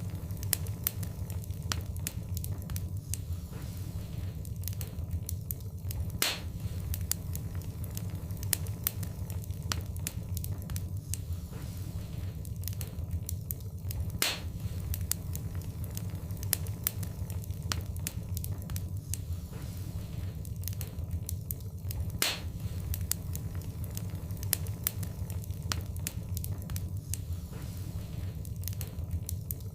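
Wood fire burning in a fireplace: a steady low rumble with constant small crackles and a few louder pops.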